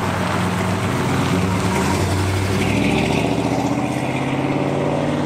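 A 1972 Chevrolet Monte Carlo's V8 engine running steadily as the car drives past and away.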